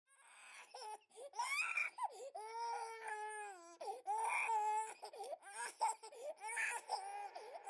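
A high-pitched voice crying in a string of short wavering cries that rise and fall in pitch, with no words.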